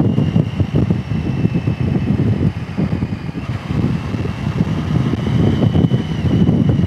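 Wind buffeting a rider's microphone on a motorcycle at road speed, a loud, rough, continuous rumble with the bike's running underneath and a thin steady high whine.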